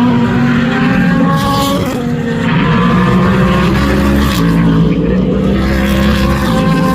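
Several racing car engines running hard at once, their notes stepping and sliding up and down as they accelerate and shift gears.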